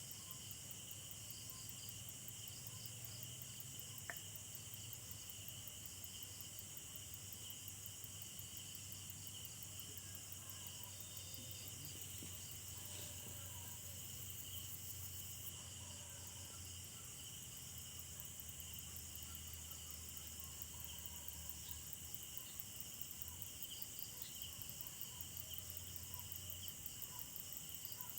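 Chorus of crickets and other night insects: a steady, high-pitched, finely pulsing trilling, with a single sharp click about four seconds in.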